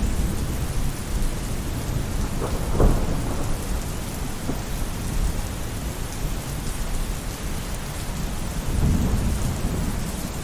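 Rain falling steadily on a roof, with low thunder rumbling underneath. A brief louder burst comes about three seconds in, and the rumble swells again near the end.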